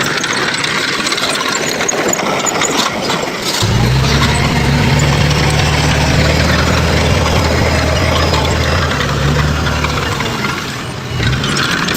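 Diesel engine of heavy earthmoving machinery over a broad mechanical noise. About four seconds in, a steady low engine note comes up, holds for several seconds and fades near the end.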